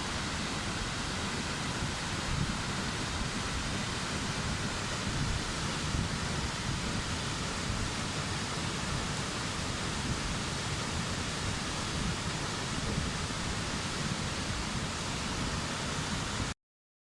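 Sasa-no-taki waterfall: a constant, even rush of falling water, cutting off suddenly near the end.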